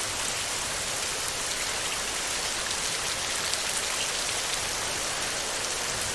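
Heavy rain falling on a metal roof: a steady, dense hiss with scattered drop ticks.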